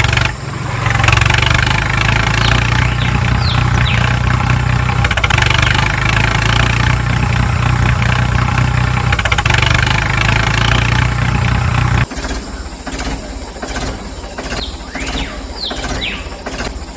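Small model engine running steadily, a miniature motor of the kind fitted to a DIY model tractor, then cutting off abruptly about twelve seconds in. A fainter background with a few short high chirps follows.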